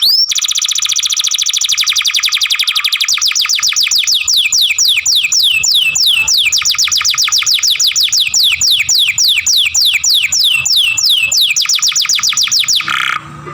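Young domestic canary singing one long rapid trill of repeated downward-sweeping whistled notes. The trill gradually slows and stops shortly before the end.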